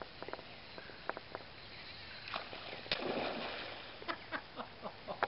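A hooked steelhead breaks the surface and falls back with a splash about three seconds in, over the steady rush of the creek, with scattered sharp ticks.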